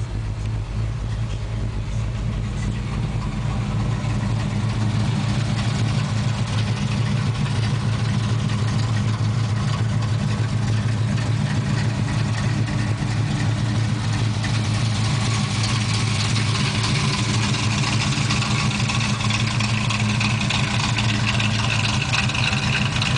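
1978 Pontiac Trans Am's W72 Pontiac 400 V8 idling steadily. It is heard first from inside the cabin, then brighter and harsher from outside with the hood up, from about halfway through.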